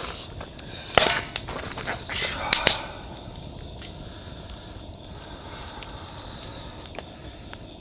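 Insects chirring steadily in one unbroken high tone, with a few sharp clicks and knocks in the first three seconds.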